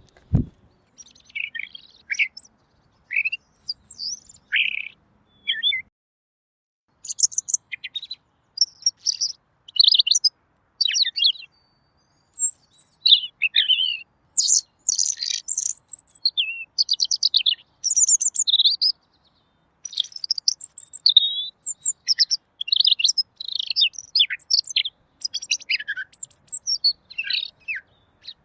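Pekin robin (red-billed leiothrix) singing a fast, varied song of short chirps, trills and whistles in quick bursts, with a few brief pauses.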